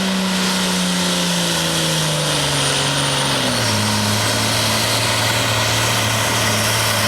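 Cummins diesel engine of a hot farm pulling tractor running hard under load down the track, its pitch sinking steadily over the first few seconds as the engine speed is pulled down by the sled, then holding low and steady.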